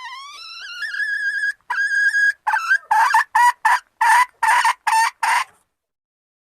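Female junglefowl calling to solicit mating: a long note that rises and then holds steady, a second held note, then a quick run of about eight short notes, stopping about five and a half seconds in.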